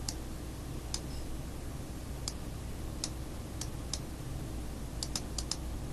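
Scattered clicks of computer keys, one or two at a time, with a quick run of several clicks near the end, over a faint steady low hum.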